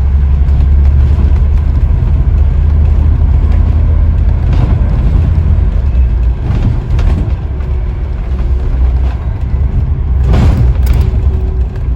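Scania N94UD OmniDekka double-decker bus on the move, heard from inside: steady low engine and road rumble with knocks and rattles from the body. A louder thump comes near the end, and a steady hum joins in during the last few seconds.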